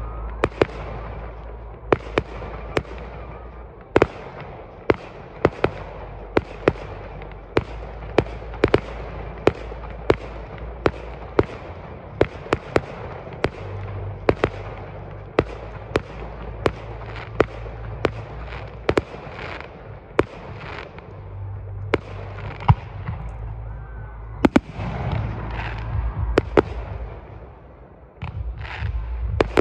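Fireworks display: aerial shells going off in a long, steady string of sharp bangs, about one to two a second.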